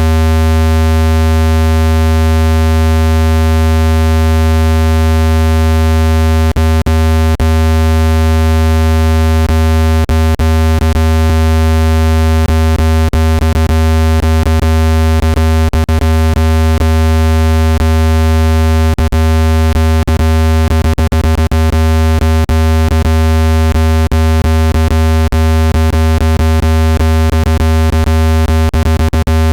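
Synthesized speaker-cleaning tone: a loud, deep, steady hum with many steady higher overtones above it, made to vibrate dust out of a phone speaker played at full volume. From about six seconds in, brief clicks break in here and there.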